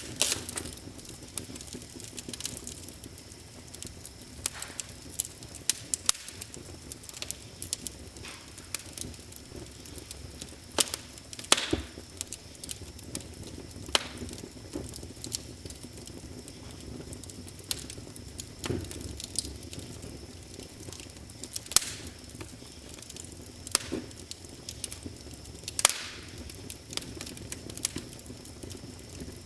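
Wood fire crackling: irregular sharp pops and snaps, a few louder ones, over a low steady hiss.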